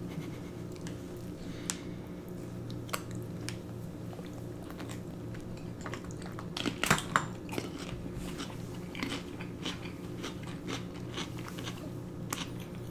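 Close-miked chewing with scattered mouth clicks, and a loud crunching bite into a slice of raw cucumber about seven seconds in. A steady low hum runs underneath.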